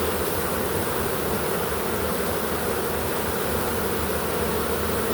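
A honey bee swarm buzzing loudly around an open hive box as the bees settle in: a steady, dense drone of many wingbeats.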